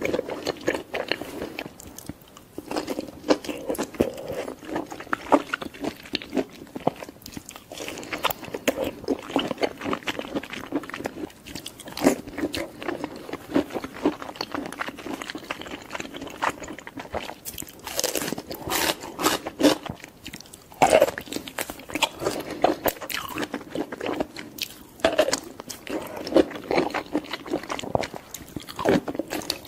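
Close-up eating sounds of a person biting and chewing cooked mushrooms: a dense run of short, crisp clicks from the mouth, with a cluster of louder bites about two-thirds of the way through.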